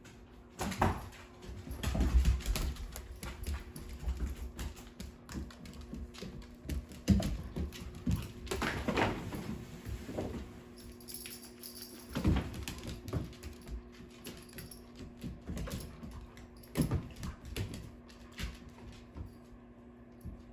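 Dogs playing on a hard floor: irregular clicking and scuffling of claws and paws, with several louder thumps and rushes of breath, over a steady low hum.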